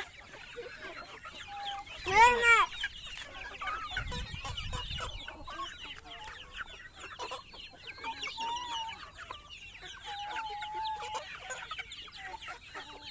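A flock of chickens clucking and chirping, many short calls overlapping, with one loud squawk a little over two seconds in.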